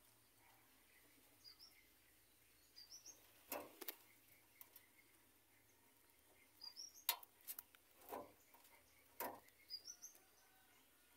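Quiet background with faint birds chirping now and then in short, high, rising notes, and a handful of sharp clicks and knocks, the loudest about seven seconds in.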